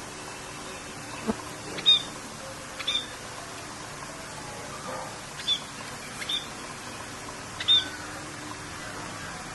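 Birds calling in short, sharp chirps, about half a dozen spread a second or two apart, over a steady hiss of rain.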